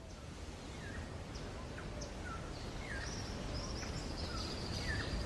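Birds chirping outdoors: repeated short, falling chirps, with a high, sustained trill from about halfway in, over a steady background hiss of natural ambience that gradually gets louder.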